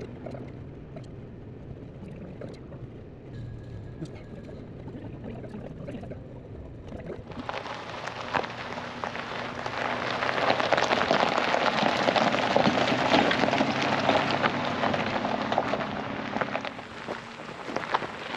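Heavy rain falling as a dense, steady hiss that starts suddenly about seven seconds in and is loudest in the middle. Before it there is a low steady hum with scattered clicks.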